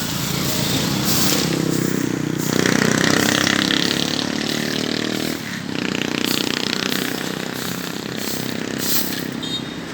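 A motor vehicle engine, such as a passing motorbike, running close by on the street. Its pitch dips and recovers about five and a half seconds in, over a rough scraping hiss.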